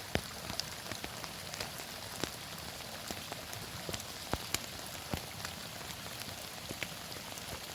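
Heavy rain falling steadily, with many individual drops striking close by as sharp, irregular ticks over the constant hiss.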